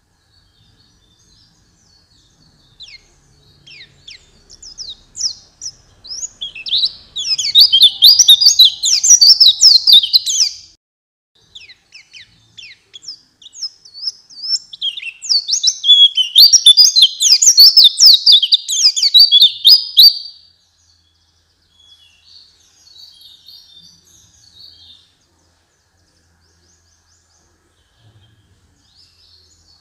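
White-eye (pleci) singing: scattered soft twitters build into two loud bursts of rapid, high-pitched chattering song, each about four to six seconds long, then only faint twitters in the last part.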